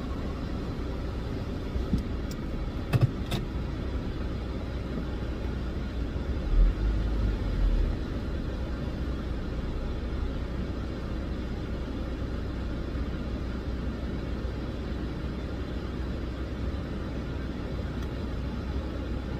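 Steady low rumble of a car idling, heard from inside the cabin while it waits in stalled traffic. A few faint clicks come about two to three seconds in, and a short louder low rumble about seven seconds in.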